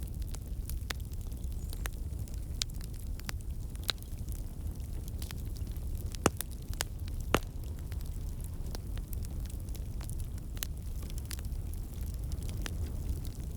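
Wood fire crackling in a fireplace: scattered sharp pops and snaps over a steady low rumble of the flames, with two louder pops about a second apart around halfway through.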